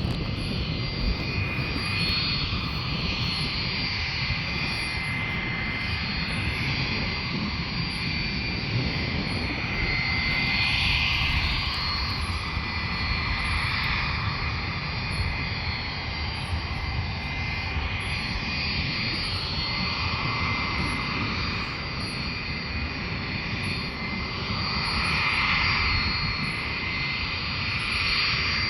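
Aircraft turbine engines running steadily, a broad rumble with a thin high whine over it, swelling slightly about ten seconds in and again near the end.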